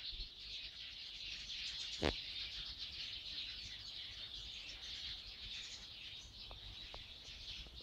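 A flock of birds chirping and twittering in a dense, continuous chorus, with one sharp knock about two seconds in.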